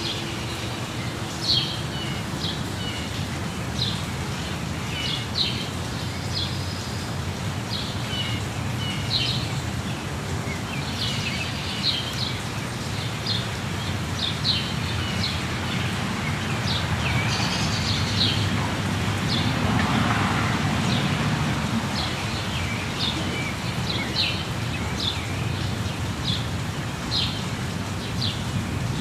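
Steady rush of a waterfall with many birds chirping and calling over it in short, repeated notes; the water grows a little louder a little past the middle.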